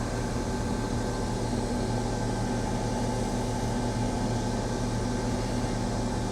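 A heavy crane's diesel engine running steadily, an even low hum with no change in pitch.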